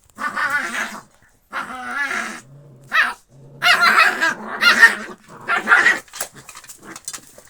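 Canines vocalising in a fight: a series of loud, wavering pitched cries mixed with growls, coming in bursts about a second apart.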